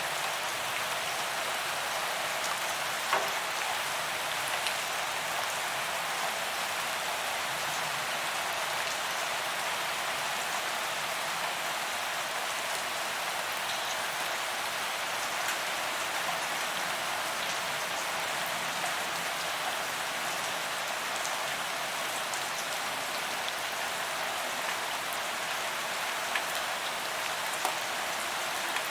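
Steady rain falling on a paved sidewalk: a constant hiss with many individual drops ticking on the pavement, and a slightly louder splat about three seconds in.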